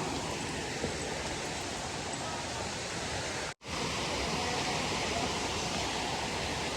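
Waterfall water rushing with a steady, even noise. It cuts out for a moment about halfway through, then resumes unchanged.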